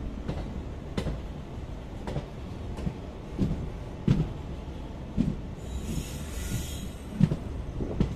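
Moving passenger train heard from on board: a steady low rumble of wheels on the track, with irregular sharp clicks and knocks as the wheels run over rail joints and points. A brief hiss comes about two-thirds of the way through.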